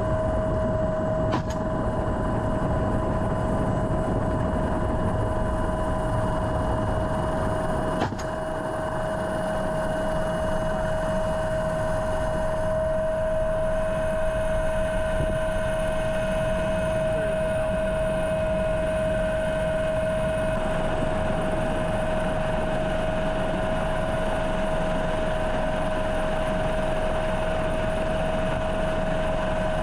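Helicopter engine and rotor noise heard from inside the aircraft: a steady high whine over a constant rumble, with two brief clicks, one near the start and one about eight seconds in.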